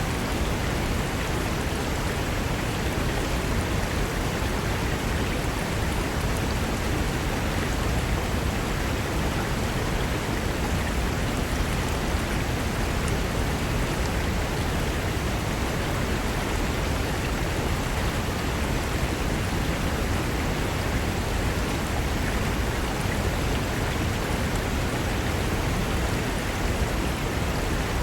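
Mountain river rushing over rocks: a steady, dense roar of whitewater with no change in level.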